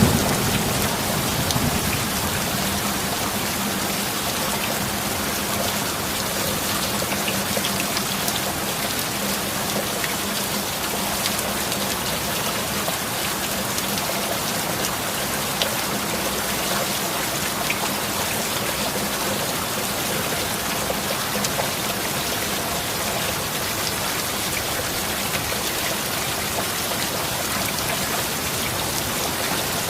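Steady heavy rain falling on a roof, an even unbroken wash of noise. The last of a thunder rumble fades out in the first second or so. Faint steady low tones sit under the rain.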